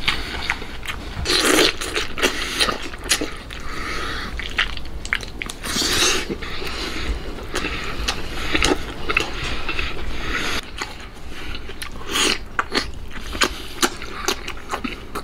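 A man chewing soft braised pork large intestine close to the microphone: irregular clicks and smacks of biting and chewing, with a few louder bursts about a second and a half, six and twelve seconds in.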